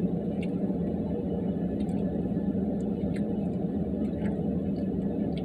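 Steady low drone of a truck engine idling.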